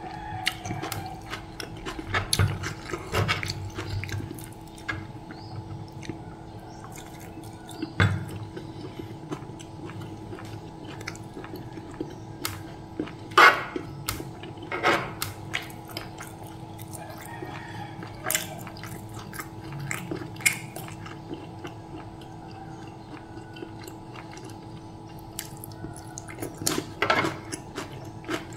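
Close-up eating sounds: chewing fried chicken and bean-sprout salad, with wet mouth noises and sharp clicks of a spoon and fork against the serving tray, loudest about halfway through, over a steady low hum.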